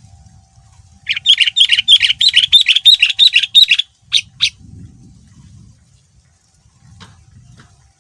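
Sooty-headed bulbul (kutilang) singing a fast, rapid run of chirping notes for about three seconds, followed by two short separate notes. Two faint clicks come near the end.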